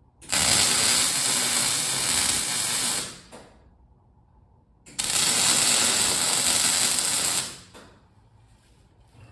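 Electric arc welder laying two weld beads, a steady crackling hiss of about three seconds, then after a short pause another of about two and a half seconds, tacking the eyes onto a small steel piece.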